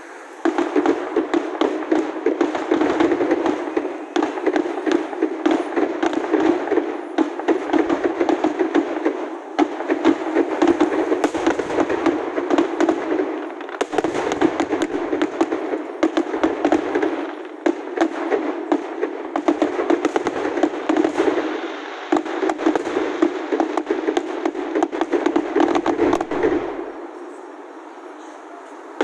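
Aerial fireworks display: a rapid, dense barrage of shell bursts and crackling, starting about half a second in, with a few short lulls, dying away near the end.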